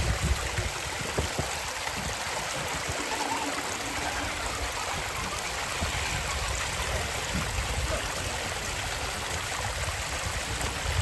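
Steady rush of flowing creek water, with irregular low thumps underneath.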